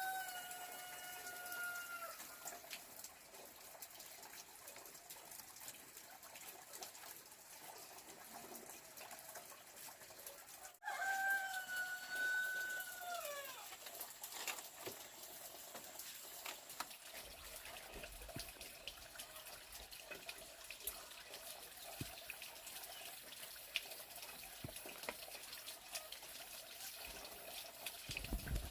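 Rooster crowing: one long crow trailing off in the first couple of seconds, then a second full crow about eleven seconds in, its pitch dropping at the end.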